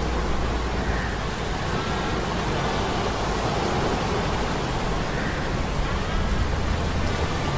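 Steady low hum of metal gears under the dense, even rush of a sea storm sound effect, with a few faint high whining tones drifting in and out.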